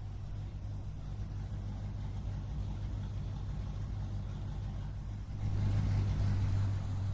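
Car engine idling with a steady low rumble, growing louder about five seconds in as it revs or passes close by, then easing off.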